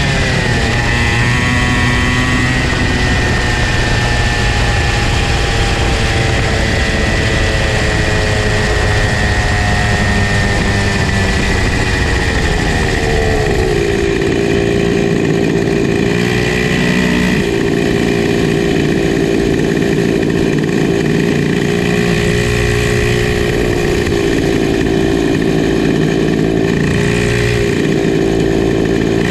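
Small two-stroke kart engine, a Comer C50, running loud: its pitch falls slowly over the first dozen seconds as it slows, then it holds a steady, lower note with a few brief changes in the second half.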